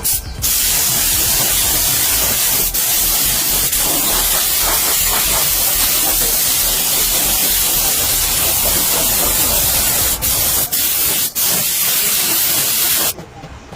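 A loud, steady spray hiss that starts just after the beginning, breaks off for an instant once about three seconds in and three times near the end, then stops about a second before the end.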